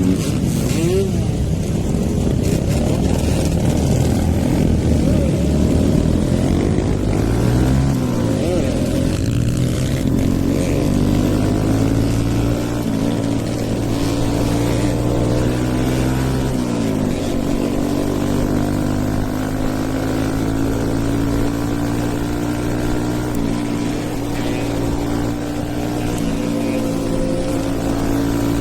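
Hero Eco 150 motorcycle with a stage 2 tune, its single-cylinder engine running under way. The revs rise and fall in the first half, the pitch drops sharply twice, and the engine then holds fairly steady revs.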